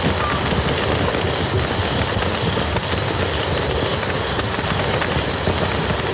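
Campfire crackling with scattered sharp pops over the steady rush of a flowing river, and a faint high chirp repeating about every three-quarters of a second.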